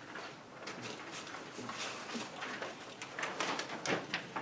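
Scattered soft clicks, knocks and rustling from things being handled at a table, heard in a small room.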